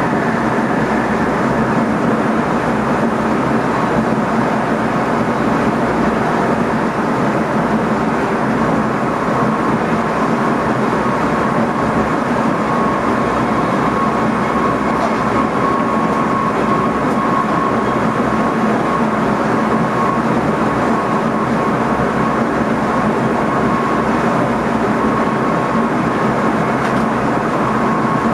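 Running noise inside the driver's cab of an NS ICM electric multiple unit travelling along the track: a steady rumble and rush, with a faint steady whine that appears about nine seconds in.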